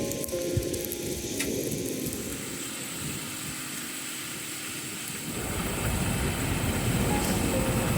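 Strong wind rushing over rain, swelling into a low rumble about five seconds in. Soft background music fades out in the first second or so and returns near the end.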